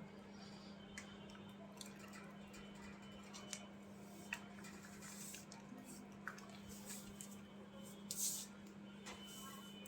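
Faint sounds of budgerigars moving about: scattered small clicks and a few short rustles over a steady low hum.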